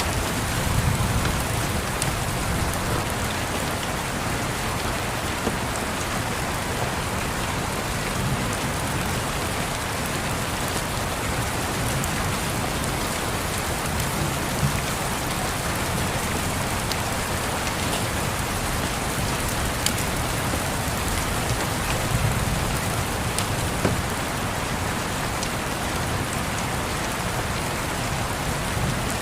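Steady rain on a surface, with scattered sharp crackles and a few soft low rumbles of distant thunder now and then.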